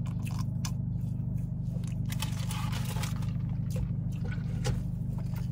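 Steady low hum of a car's engine running while parked, heard from inside the cabin, with rustling, scraping and small clicks of things being handled over it, busiest about two to three seconds in.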